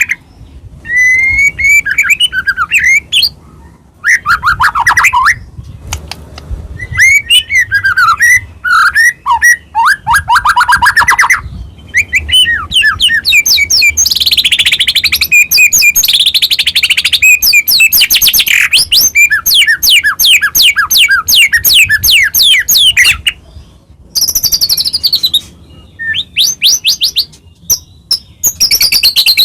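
White-rumped shama (murai batu) singing loudly in a long, varied song of whistles, fast trills and falling notes. The phrases are broken by short pauses, and a long run of rapid notes comes in the middle.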